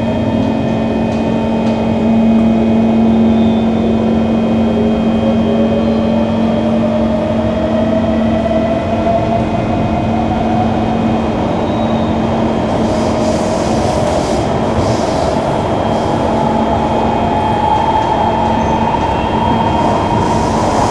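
Singapore MRT electric train pulling away from a station, with its traction motor whine rising steadily in pitch as it accelerates. A steady hum and the rumble of the wheels on the track run underneath.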